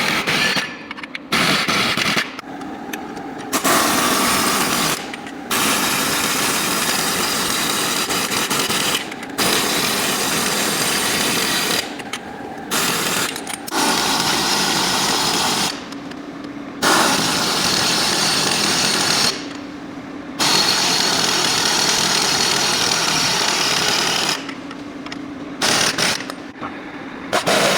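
A power tool running in bursts of a few seconds, stopping and starting again many times.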